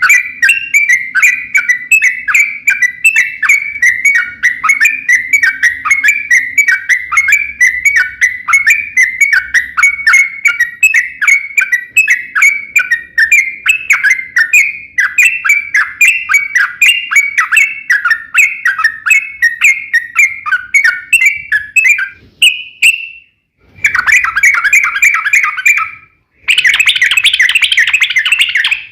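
Yellow-vented bulbul (trucukan) singing a long, rapid string of short chirping notes without a pause, then, after two brief breaks near the end, a denser and louder run of notes.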